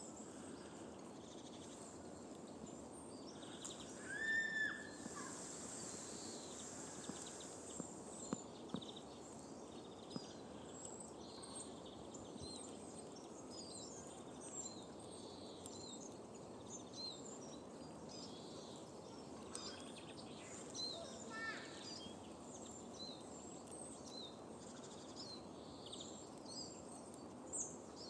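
Outdoor ambience of many small birds chirping and twittering over a steady low background rumble, with a louder call about four seconds in and a short falling run of notes about three quarters of the way through.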